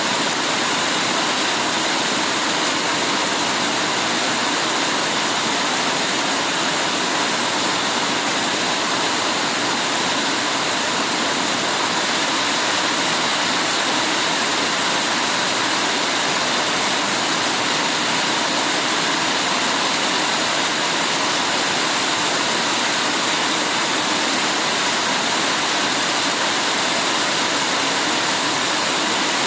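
Heavy rain falling steadily, a constant even hiss with no breaks or separate drops standing out.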